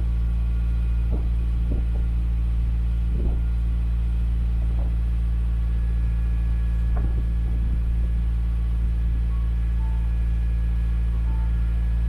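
Subaru flat-four engine idling steadily through an aftermarket EXAS EVO Tune muffler, giving a deep, even exhaust rumble while it warms up from a cold start.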